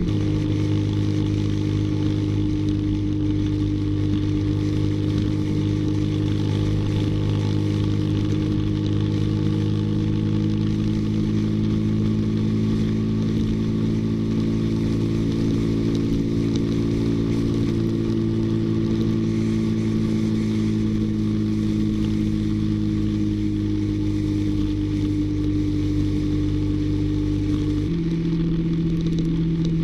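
Honda Super Cub 110's small single-cylinder four-stroke engine running steadily while riding, its pitch rising and falling a little with road speed and changing abruptly near the end.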